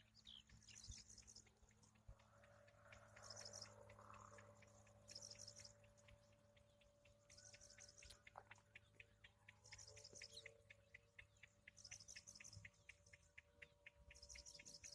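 Near silence: faint outdoor background with short high chirps repeating about once a second, and faint quick ticking in the second half.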